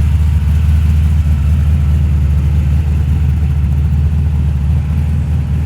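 Ford Fairmont XD's engine running at low speed with a loud, steady, deep rumble as the car rolls in.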